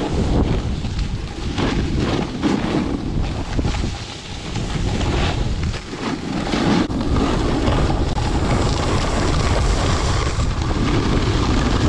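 Heavy wind buffeting the microphone, a loud rushing that dips briefly about four and six seconds in.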